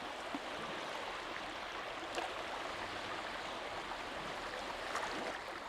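Steady rushing noise with no clear pitch, like running water or distant ambience, with a few faint clicks.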